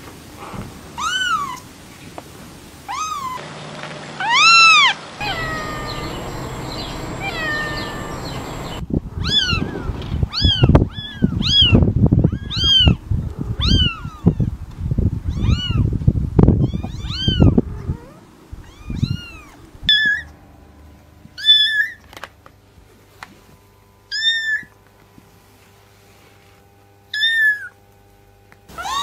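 Kittens mewing: many short, high-pitched mews, coming quickly one after another through the middle and spaced out towards the end. A low rumbling noise runs under the fast run of mews.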